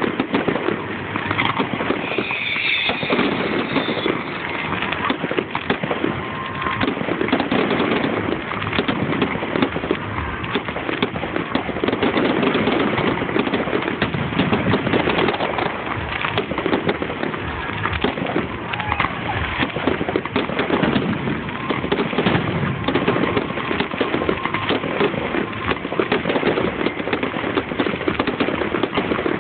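Fireworks going off without a break: a dense stream of bangs and crackling, recorded on a phone's microphone.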